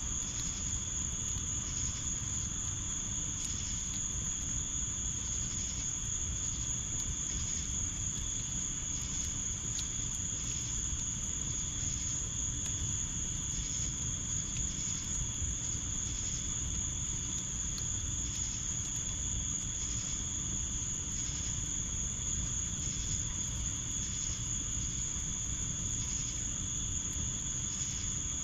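Crickets trilling, a continuous high-pitched chorus, with a fainter insect call pulsing about once a second over a low steady background rumble.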